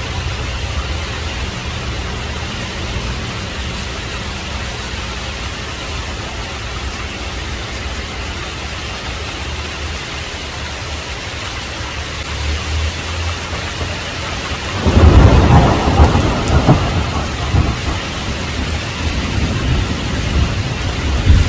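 Heavy rain falling steadily with a low rumble, then a loud thunderclap about 15 seconds in that rolls on for several seconds as it fades.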